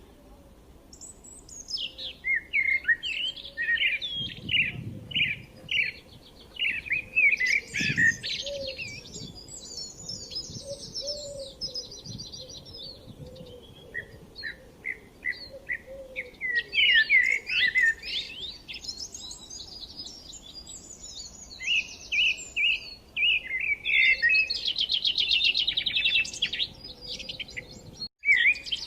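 Songbirds chirping and singing: strings of short, quick chirps and sweeping notes, with fast trills around the middle and again near the end.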